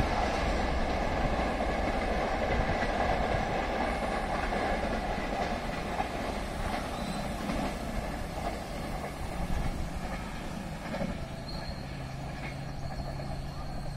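Rumble and wheel clatter of an express train's LHB coaches receding down the line, fading steadily away. A faint steady hum comes in near the end.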